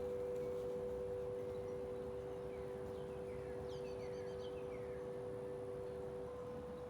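Large tubular wind chime ringing two long, steady low notes in the wind, one freshly struck at the start and the other fading out near the end. A few short bird chirps sound in the middle.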